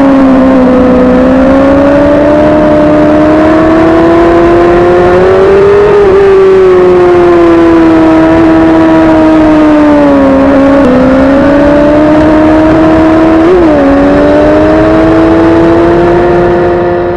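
Suzuki GSX-R sport bike engine running hard at high, fairly steady revs, its pitch drifting up and down with the throttle. There are brief sharp dips in pitch about ten and thirteen and a half seconds in, and the sound fades out near the end.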